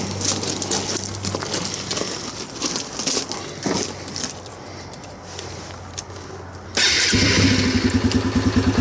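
Motorcycle engine being started: after a few seconds of low hum and light clicks, it fires about seven seconds in and settles into a fast, even idle.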